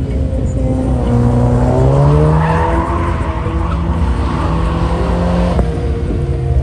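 A car engine revs up over about a second, holds at high revs for a few seconds, then drops off sharply about five and a half seconds in.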